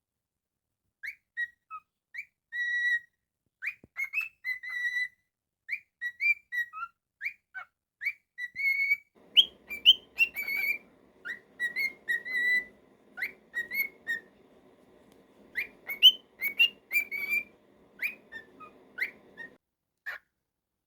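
Cockatiel whistling a song: a long string of short, clear whistled notes at much the same pitch, mixed with quick upward-sweeping chirps, stopping just before the end.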